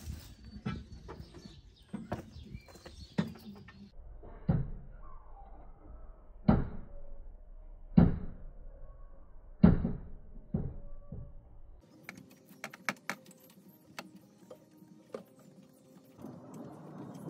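Hand tools working a rusted exhaust bolt: four heavy metal knocks about one and a half to two seconds apart, each with a short ring, then a run of quick light metallic clicks.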